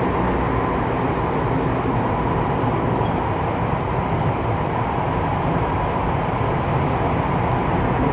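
Saitama Railway 2000 series electric train running between stations, heard from inside the car: a steady rumble of wheels on rail and running noise.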